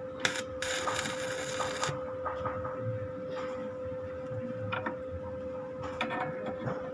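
Foam-shredding machine running with a steady motor hum. A loud burst of shredding noise comes just after the start and lasts about a second and a half, then scattered clicks and rattles.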